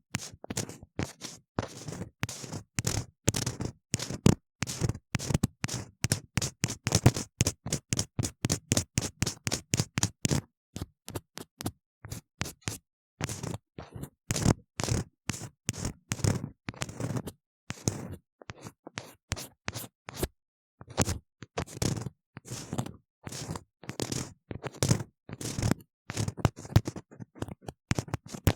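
Ear-cleaning tool scraping and scratching hard inside a silicone ear model, close to the microphone: quick rasping strokes, about three or four a second, with a couple of brief pauses.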